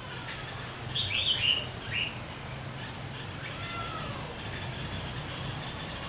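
Birds calling: a few sharp, sweeping chirps about a second in, then a quick run of high, thin notes near the end.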